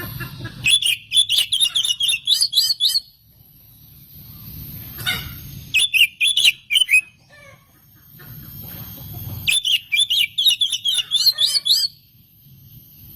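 Oriental magpie-robin (kacer) singing in three bouts of rapid, chattering high notes mixed with clicks, each bout lasting one to three seconds.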